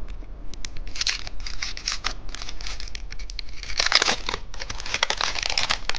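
Plastic candy packaging crinkling and tearing as it is handled and opened, in a dense run of crackles that thickens about four seconds in.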